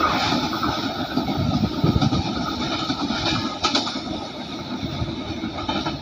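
Freight train rolling away down the line, a steady rumble and rattle of wagons on the rails, easing off a little as it recedes.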